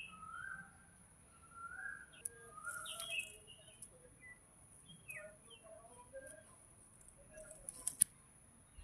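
Faint birdsong: several birds chirping in short scattered whistled notes, over a steady high thin tone. A few sharp clicks, the loudest about eight seconds in.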